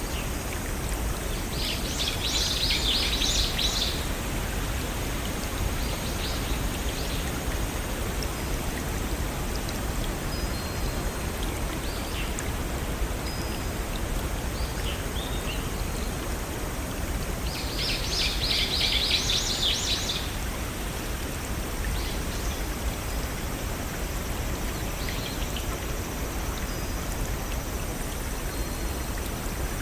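Steady rushing of a small forest stream and waterfall, with songbirds calling over it: two louder bursts of quick chattering notes, one a couple of seconds in and one about two-thirds of the way through, and fainter short calls between.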